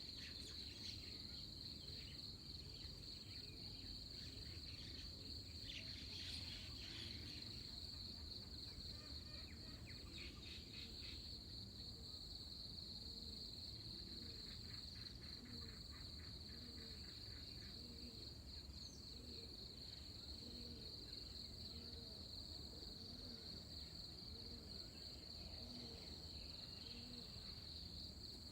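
Dawn insect chorus: a steady, high, pulsing trill that runs on unbroken. Scattered brief chirps sound over it, and a faint low rumble lies underneath.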